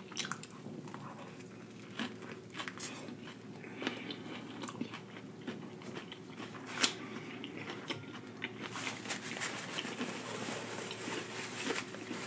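Close-miked eating of a fast-food sandwich: crunchy bites, chewing and wet mouth clicks, turning into a denser crackling from about nine seconds in.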